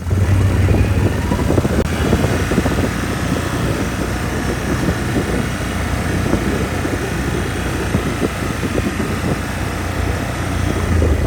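An engine running steadily and loudly, cutting in and out abruptly.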